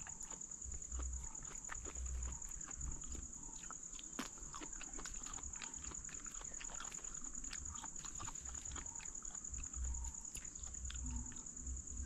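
Close, wet chewing and mouth smacking of ripe honey jackfruit (pæṇi varaka) flesh, many short irregular clicks, over a steady high-pitched insect drone.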